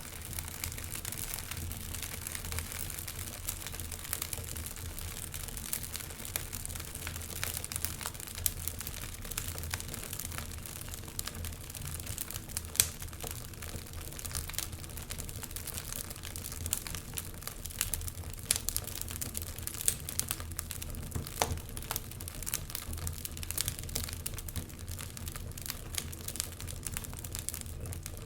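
Wood fire burning in a fireplace, crackling steadily with many sharp pops and snaps of varying strength over a low rumble.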